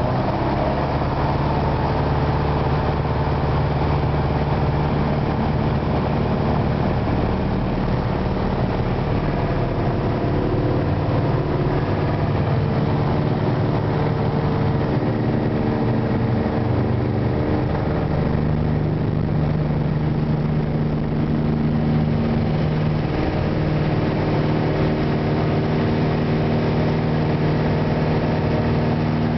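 Single-engine light aircraft's engine and propeller droning steadily, with a few steady low tones that shift slightly in pitch.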